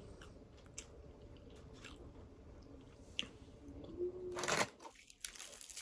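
Close-up chewing of crispy deep-fried food, with soft crunches and mouth clicks and a louder crunchy bite about four seconds in.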